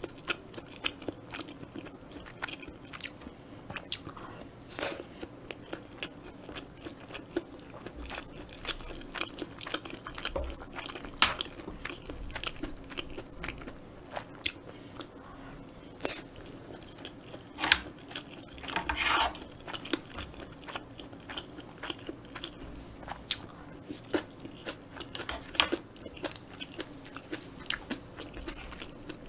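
Close-miked chewing of mouthfuls of kimchi fried rice, with many short wet mouth clicks and smacks. A wooden spoon scoops from a stainless steel pan now and then.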